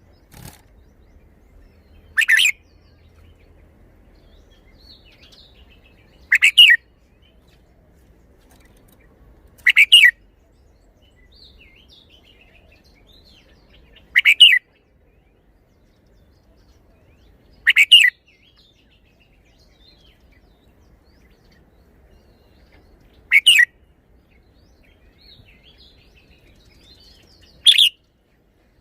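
Red-whiskered bulbul singing: seven short, loud song phrases, one every three to five seconds, with faint chirps between them.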